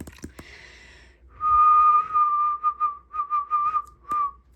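Whistling: one long held note, then a run of short, wavering notes at about the same pitch.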